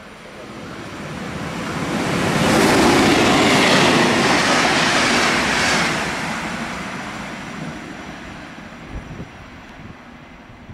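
Trenitalia regional train hauled by an E.464 electric locomotive, with UIC-X coaches, passing: wheels rumbling on the rails and a rush of noise that swells, is loudest from about two to six seconds in, then fades as the driving trailer pulls away.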